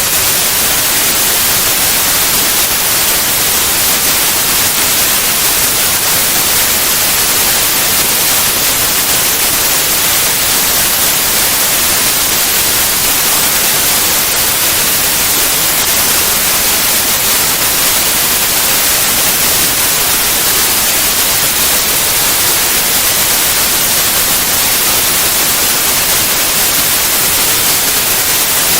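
Steady white noise: an even hiss that does not change, brightest in the high end.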